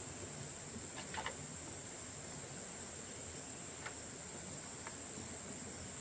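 Insects, crickets by the sound of it, trilling in a steady high-pitched chorus, with a few soft clicks about a second in and again near the end.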